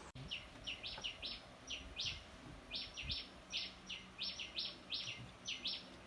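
A bird chirping: a long run of short, high chirps that fall in pitch, two or three a second at an uneven pace.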